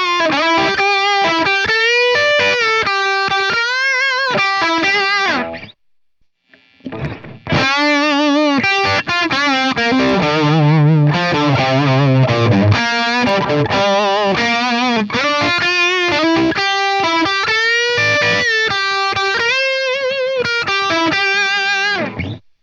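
Distorted electric guitar played through a Marshall JCM 800 amp simulation, 80s-metal style: melodic lead lines with wide vibrato and some low chugging notes. The playing stops for about a second and a half about six seconds in, then goes on.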